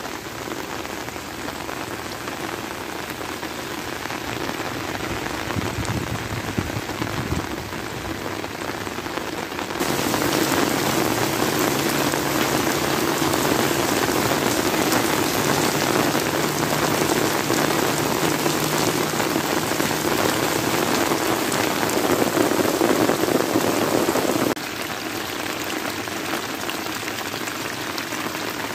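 Heavy rain falling steadily on flooded rice paddies and leaves, an even hiss with no distinct drops. The rain becomes suddenly louder about ten seconds in and drops back just as suddenly near the end.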